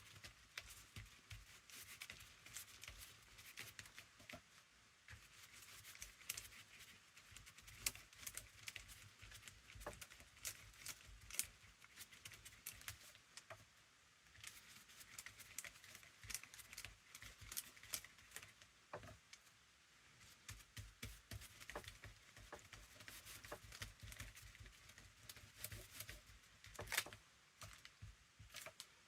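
Faint, scattered small taps, clicks and rustles of hands working a paper journal cover at a craft table while a thin coat is brushed on.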